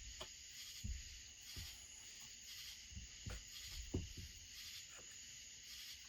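Faint scattered clicks and light knocks of hand-working chainsaw parts on a bench, over a steady high chirring of crickets.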